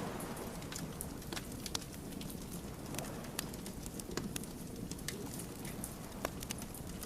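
Wood bonfire crackling: frequent irregular sharp pops and snaps of burning logs over a steady low rush of the flames.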